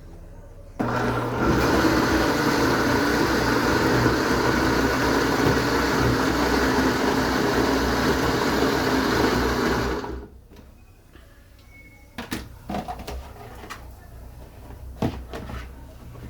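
Electric blender running at speed, grinding chopped fresh coconut with warm water to make coconut milk. It switches on about a second in, runs steadily for about nine seconds and stops; a few clicks and knocks follow.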